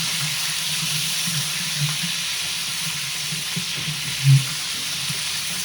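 Hot cooking oil sizzling steadily in a large pot (patila) for biryani. A brief low thump about four seconds in.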